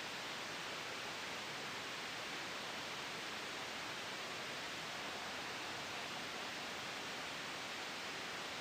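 Steady white noise: an even, unbroken hiss that does not change in level or colour.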